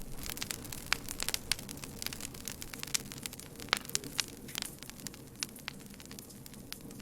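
Wood campfire crackling: irregular sharp pops and snaps, a few louder ones among many small ones, over a steady low rush of flame.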